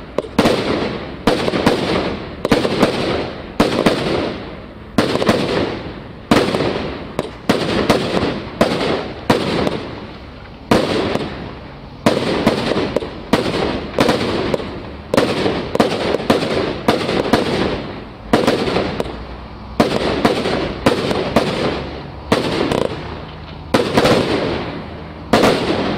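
A 100-shot, 25 mm-calibre fireworks cake firing its shots in quick succession, about one or two bangs a second, each with a decaying rushing tail. The barrage stops near the end.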